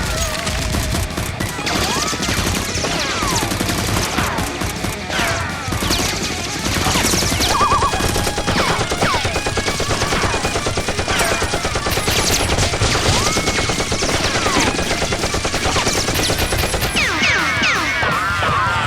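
Sustained rapid gunfire, automatic bursts run together into a continuous volley, with short whistling glides like bullet ricochets, the loudest cluster near the end; the battle sound effects added to the Nerf-blaster shootout.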